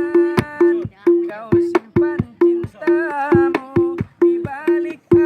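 Hadrah music: hand drums keep a steady beat of about two to three sharp strokes a second, with a ringing pitched drum note under a melodic line.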